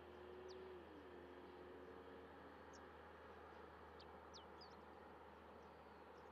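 Faint, near-silent airfield background: small birds give several short, high, downward-sweeping chirps over a low steady hum. A faint low tone drops in pitch about a second in.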